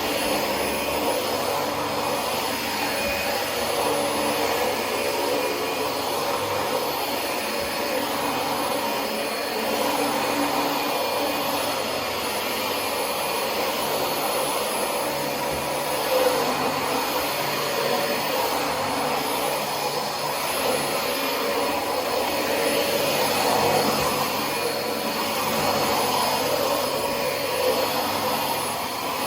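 Dyson DC25 upright vacuum cleaner running steadily while vacuuming, a rush of air with a steady high whine, its level swelling and dipping slightly.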